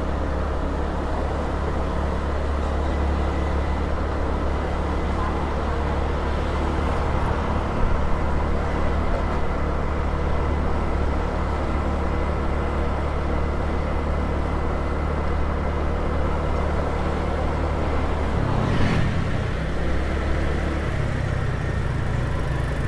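Small motor scooter's engine running steadily on the move, heard from the rider's seat with road noise. Near the end the engine note shifts.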